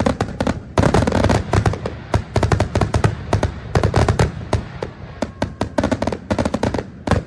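Fireworks going off in a dense barrage: many rapid cracks and bangs over a low rumble, thinning out near the end.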